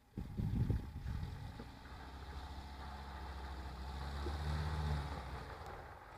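Morris Oxford estate's engine running as the car drives slowly across in front of the camera, a low steady hum that comes in suddenly at the start, grows louder toward the middle and eases near the end.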